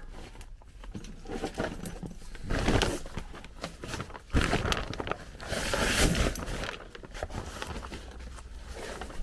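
Irregular rustling, scraping and knocking of someone moving about and handling things in a cramped crawl space, with a sharp knock about four seconds in.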